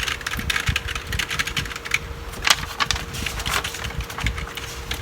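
Quick, irregular typing on a computer keyboard, with a faint steady hum underneath.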